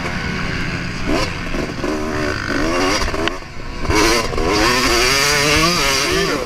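2024 Yamaha YZ250 single-cylinder two-stroke motocross engine at full throttle, its pitch rising and falling again and again as the rider opens and closes the throttle and shifts around the track.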